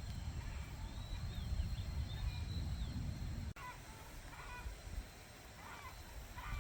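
Birds calling over a low rumble: thin high chirps in the first half, then after a sudden break about three and a half seconds in, a few short calls.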